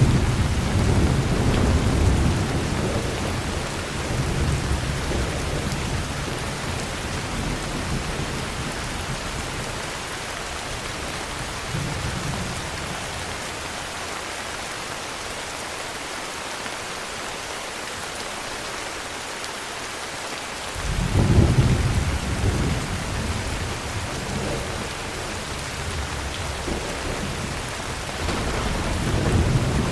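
Steady heavy rain with rolling thunder. A low rumble at the start fades over a few seconds, a second rumble comes about two-thirds of the way through, and a third builds near the end.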